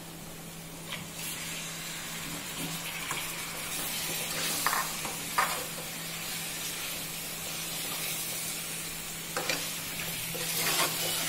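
Chicken pieces sizzling as they fry in a pan of onion, tomato and spice masala, with a spoon stirring and scraping the pan a few times. The sizzle grows a little louder toward the end.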